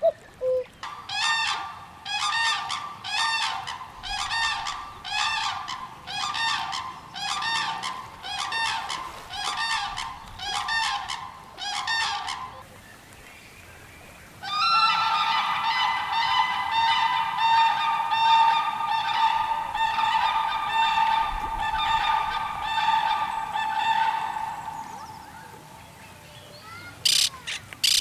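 Birds calling: a steady series of repeated calls, about one a second for twelve seconds. After a short pause comes a longer, denser run of rapid calls lasting about ten seconds, and harsh squawks start near the end.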